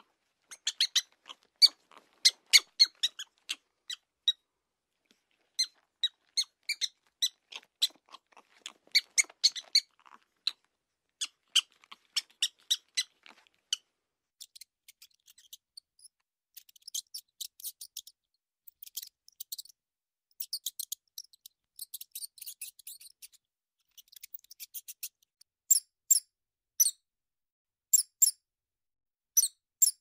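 Mouse squeaking: quick clusters of short, high squeaks. About halfway through they turn into higher, thinner runs of chirps, and near the end come as single squeaks about once a second.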